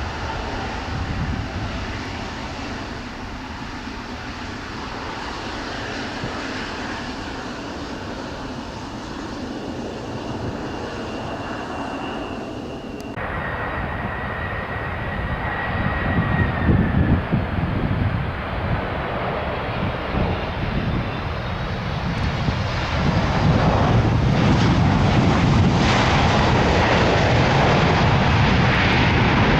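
Jet airliner engines on takeoff. An Airbus A320neo runs steadily at first. After an abrupt change about a third of the way in, a Boeing 767-300 follows, its engine noise growing louder and fuller about two-thirds of the way through.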